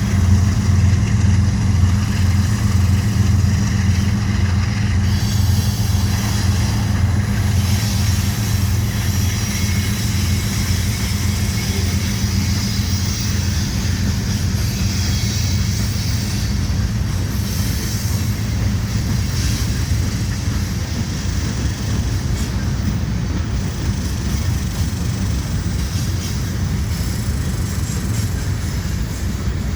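Manifest freight train passing: the low, pulsing rumble of its diesel locomotives fades over the first several seconds, leaving the steady rolling noise of the freight cars going by.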